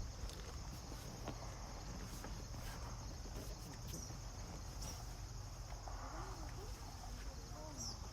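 Crickets chirping in a continuous high trill, over a low steady hum.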